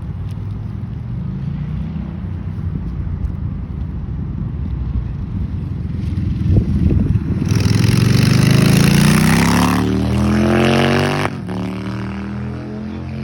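Car engine running, then revved hard about seven seconds in: the pitch rises quickly and the exhaust gets loud, then cuts off suddenly about four seconds later and drops back to a lower running sound.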